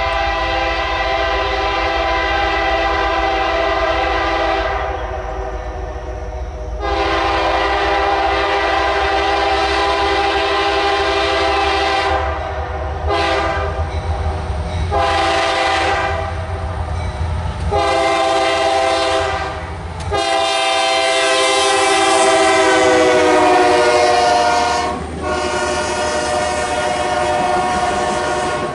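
Diesel locomotive's multi-chime air horn sounding long, long, short, long, the grade-crossing signal, then carrying on in further long blasts. The chord drops in pitch about 23 seconds in as the locomotive passes, over a low engine rumble that fades soon after.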